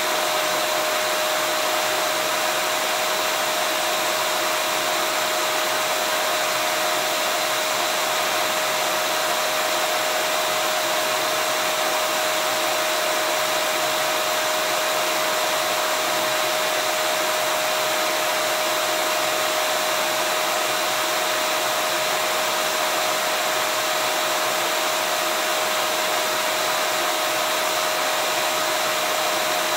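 Vacuum cleaner running continuously and unchanging: an even rushing noise with a steady whine through it.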